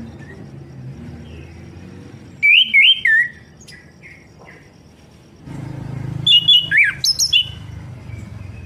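Orange-headed thrush (anis kembang) singing: two short bursts of quick, loud whistled notes that swoop up and down, about two and a half seconds in and again around six seconds in.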